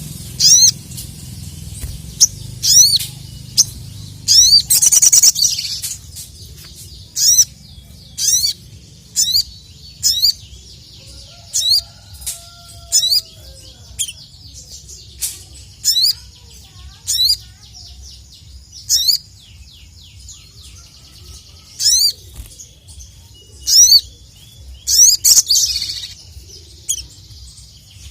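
Sogon (sogok ontong, the little spiderhunter) singing: short, sharp rising chirps repeated about once a second, broken twice by a quick run of chirps.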